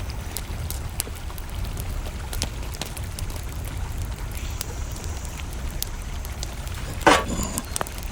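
Campfire crackling in scattered sharp clicks over a steady low rush of flowing river water, with one loud short sound about seven seconds in.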